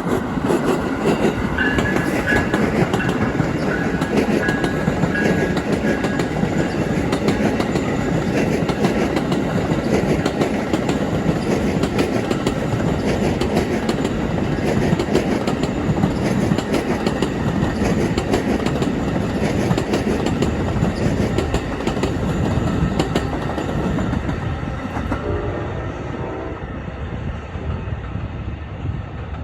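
Amtrak Silver Star passenger train passing at speed, its wheels clattering steadily over the rail joints. The noise eases off over the last few seconds as the train goes by.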